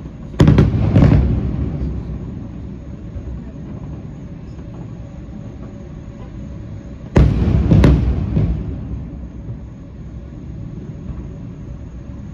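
Fireworks bursting: two loud booms about half a second apart near the start, then a cluster of about three more about seven seconds in. Each boom rolls off into an echoing tail, over a steady low rumble between the bursts.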